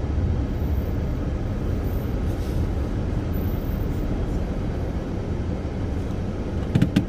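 Car running as it is driven slowly into a parking space, heard from inside the cabin: a steady low rumble of engine and road noise, with a few sharp clicks near the end.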